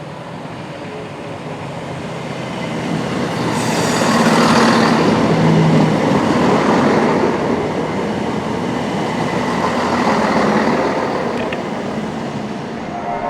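Diesel train running at a station with a steady low engine note and wheel and rail noise. It grows louder over the first few seconds, is loudest around four to six seconds in, and swells again near the end.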